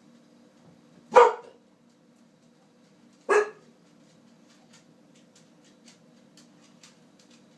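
A dog barks twice, about two seconds apart, each bark short and loud. Faint quick clicks follow in the second half.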